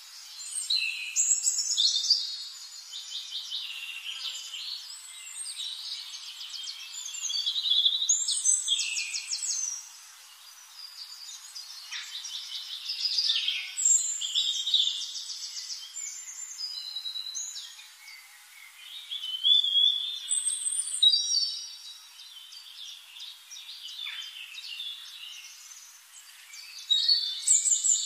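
Forest birds singing: bouts of rapid high trills, chirps and whistles that rise and fall, with a louder burst of song about every six seconds.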